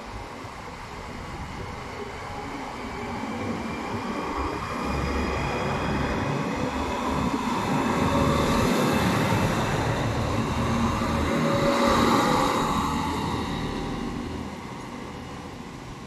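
Two coupled Class 650 Regio-Shuttle diesel railcars passing close by: their running sound grows steadily louder, is loudest about twelve seconds in as they go past, then fades as they pull away.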